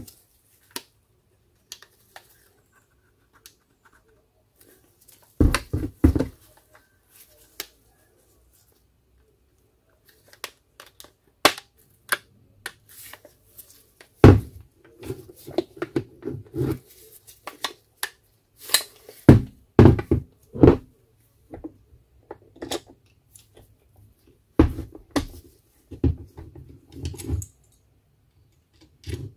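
Hands working on a cordless angle grinder's parts: scattered sharp clicks and knocks with short bouts of scraping and rattling, in several bursts with quiet gaps between.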